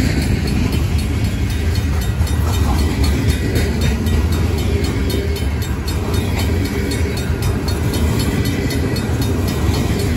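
Union Pacific grain train's covered hopper cars rolling past at a grade crossing: a steady, heavy rumble of wheels on rail. Under it the crossing signal's Safetran mechanical bell rings with even, repeated strikes.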